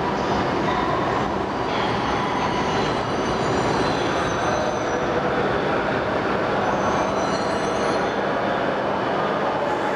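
Shinkansen train running along the platform at low speed, a steady rumble with faint wheel squeal and motor tones.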